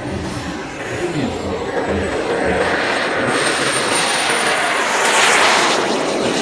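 Airplane engine noise swelling as it passes, loudest about five seconds in, with a thin high whine running through it.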